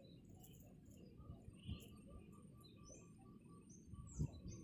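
Faint wild birdsong: high chirps and short falling notes, with a soft repeated trill through the middle. A single thump sounds near the end.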